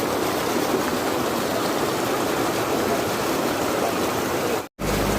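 Steady rush of flowing floodwater from the swollen river. Near the end the sound cuts out for an instant, then a motor is heard running steadily.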